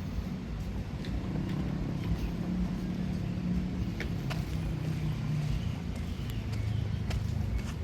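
A motor vehicle's engine running close by as it passes, its pitch stepping down over several seconds, over general street noise.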